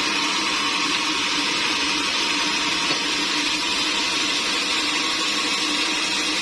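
Sawmill saw running steadily: an even, unbroken hiss with a faint steady hum underneath.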